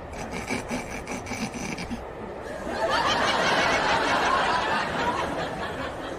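Audience laughter swelling up about three seconds in and dying down near the end, after a stretch of rustling and clicking.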